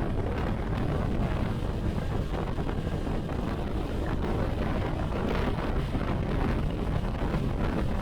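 Heavy wind buffeting on the microphone while riding a motorcycle at speed, a steady low rumbling rush.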